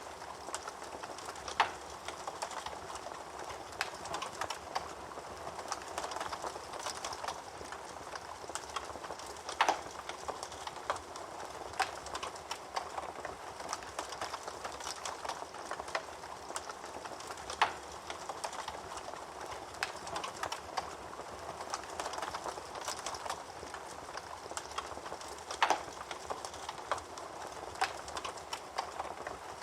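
Wood fire burning in a fireplace: a steady crackle with many small snaps, and four louder pops about eight seconds apart.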